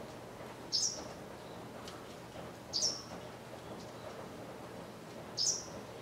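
A small bird calling: three short, high, sharp call notes spaced about two to three seconds apart.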